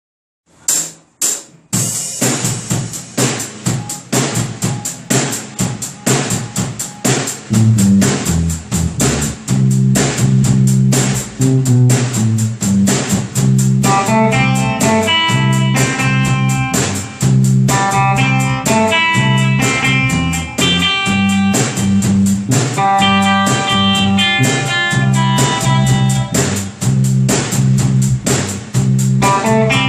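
Instrumental rock band music. Three clicks count in, drums come in about two seconds in, a bass line joins near eight seconds, and a picked guitar melody joins around fourteen seconds.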